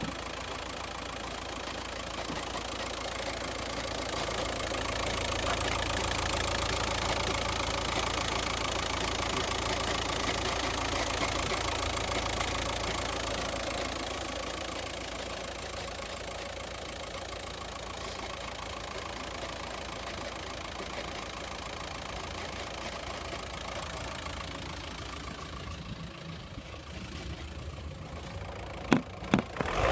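Skoda Octavia 1.9 TDI (BKC) four-cylinder diesel engine idling steadily, louder for a stretch in the first half. A couple of sharp clicks near the end.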